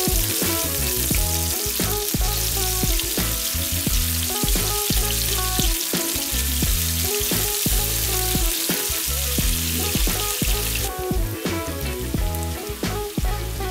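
Sliced onions sizzling in hot oil and butter in a nonstick frying pan, with a plastic spatula scraping and stirring them. About eleven seconds in, the sizzle suddenly drops off, and sliced carrots tumble into the pan near the end.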